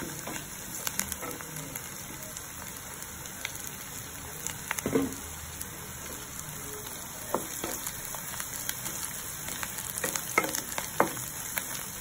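Onions, mint and coriander leaves sizzling steadily as they fry in oil and ghee in a kadai. A wooden spatula knocks and scrapes against the pan as it stirs, sharpest about halfway through and near the end.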